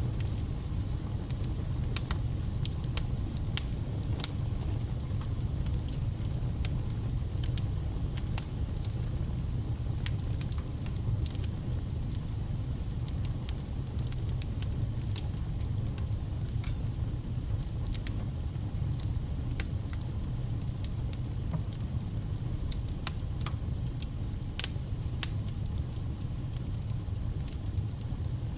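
Wood fire burning, a steady low rumble with frequent sharp crackles and pops of the logs scattered irregularly throughout.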